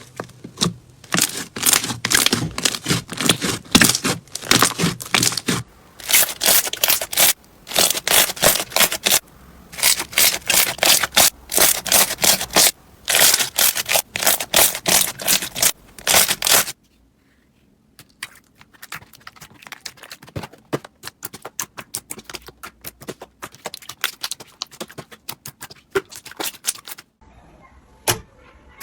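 Slime being squeezed and pressed by hand, giving rapid runs of crackling and popping clicks. A little past halfway the clicking turns quieter and sparser.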